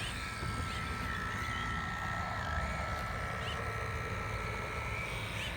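Radio-controlled model boat's motor running under way, a thin whine that wavers up and down in pitch as the throttle changes, over a low rumbling noise.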